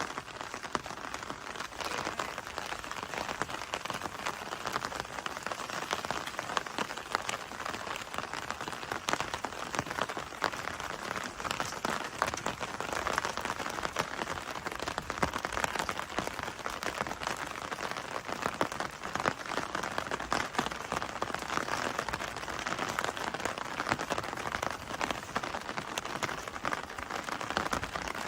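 Steady rain falling, with many individual drops close by heard as a dense run of small ticks over an even hiss.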